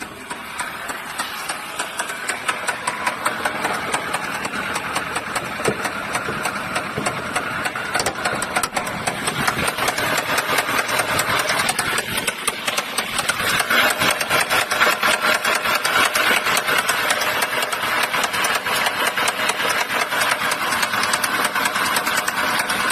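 Nissan CR14DE 1.4-litre four-cylinder engine running with a rapid, loud metallic knocking, which grows louder through the first half. The owner fears this knock means the engine is beyond saving.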